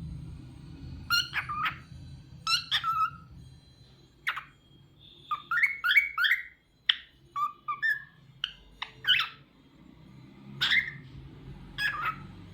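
Cockatiel whistling and chirping in short phrases of quick, gliding notes, with brief pauses between them.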